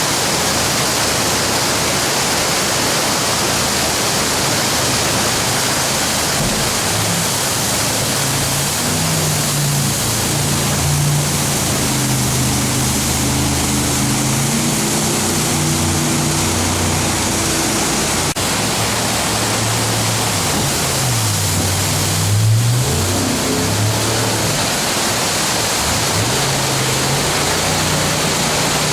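Jet boat engine running under throttle through whitewater, its pitch rising and falling, over a steady loud rush of rapids and wind. The engine drops in pitch and comes back up about two-thirds of the way through.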